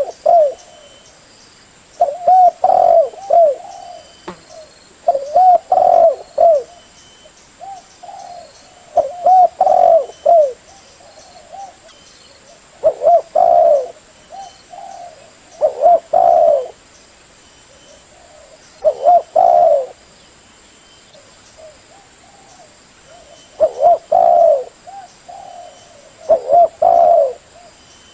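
Spotted dove cooing: short phrases of a few low, arched coos, repeated about every three seconds.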